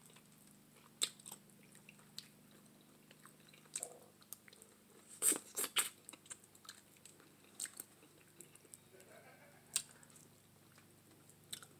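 Close mouth sounds of eating curried neck bones by hand: chewing, biting and smacking in scattered small clicks, busiest about five to six seconds in, over a faint steady low hum.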